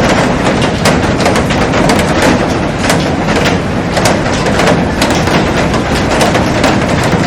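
Heavy rain falling on a glass roof and garden plants: a loud, steady dense hiss with many sharp drop hits on the glass.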